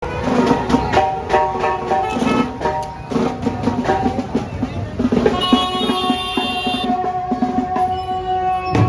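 Music played loud over a DJ sound system: a drum-driven beat with a melody, a long held synth-like note about halfway through, and a heavy bass hit near the end.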